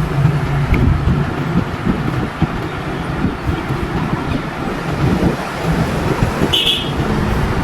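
Low rumble of a motor vehicle engine running, uneven throughout, with a short high-pitched sound about six and a half seconds in.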